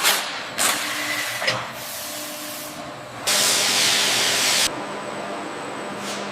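Several bursts of hissing spray over a faint steady hum; the longest and loudest runs for about a second and a half from just past three seconds in.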